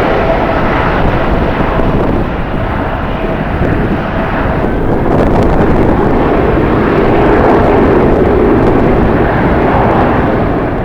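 Loud, steady rushing noise of a jet airliner's engines, with a faint steady whine that fades out in the first half.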